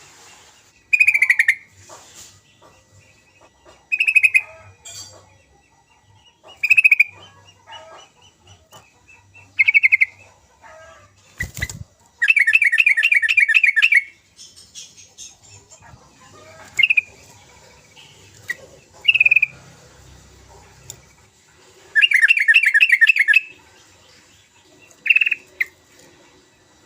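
Yellow-vented bulbul calling: short bubbly phrases about every three seconds, then two longer runs of fast chattering notes, the first about halfway through and the second near the end. A single sharp knock sounds just before the first run.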